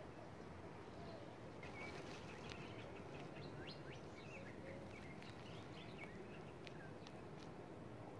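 Faint birds chirping in the background over a steady low hiss of outdoor ambience: a string of quick, high chirps starting a couple of seconds in and stopping near the end.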